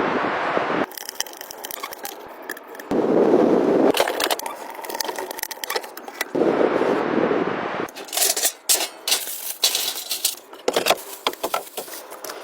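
Hand-tool building noises in short cuts: scraping and rasping on wood in bursts of a second or so, broken by sharp clicks and knocks.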